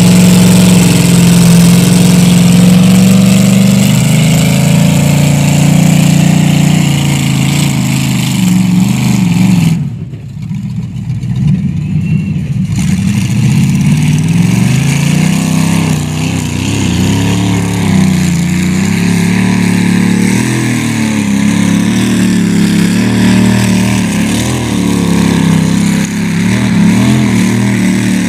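Chevrolet 283 small-block V8 in a demolition derby truck running loud. The engine drops off sharply about ten seconds in, then climbs back and rises and falls in pitch as the throttle is worked.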